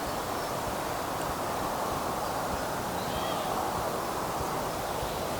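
Steady outdoor woodland ambience: an even rushing noise of wind through the trees.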